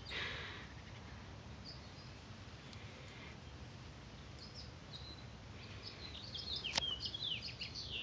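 Small birds chirping over faint outdoor background noise: a short chirp about two seconds in, then a busier run of quick twittering chirps from about halfway on, with one sharp tick about seven seconds in.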